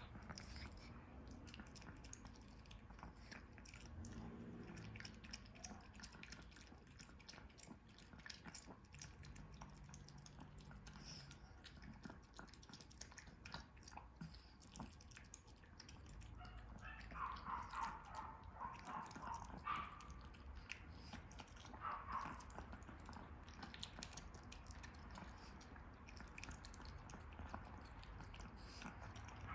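A smooth chihuahua chewing and biting at food, heard as a quiet run of small wet clicks and crunches. The sound gets louder for a few seconds a little past the middle.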